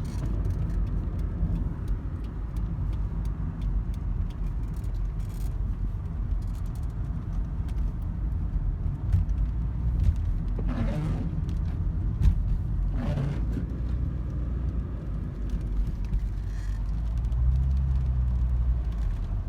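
Inside a Volvo 940 Turbo wagon driving through heavy rain: steady engine and road rumble, with scattered light clicks of rain on the body. Two brief whooshes come about eleven and thirteen seconds in, and a steady engine hum rises near the end.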